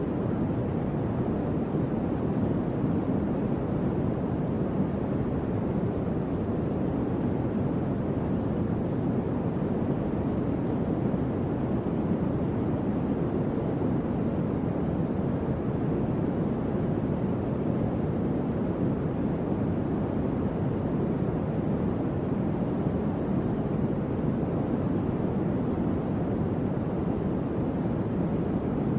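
Electric fan running steadily: an even, low rushing of air with no changes.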